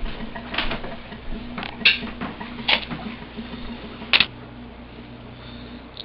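A few irregular sharp clicks and taps, the loudest about two seconds and four seconds in, over a steady low hum.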